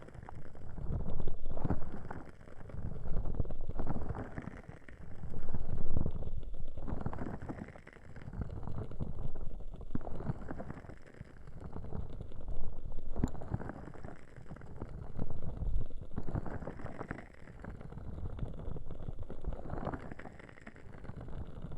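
Ear cupping on a 3Dio binaural microphone: the microphone's ears covered and rubbed in slow strokes, each a muffled whoosh that rises and falls, about one every one and a half to two seconds.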